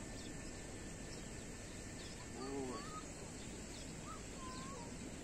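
Bird calls: one call with a stacked, arching pitch about halfway through, followed by a few shorter, higher calls, over steady outdoor background noise.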